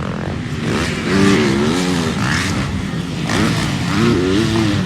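Motocross bikes racing, the engine pitch rising and falling with throttle and gear changes. The revving comes in two stretches: about a second in, and again after about three seconds.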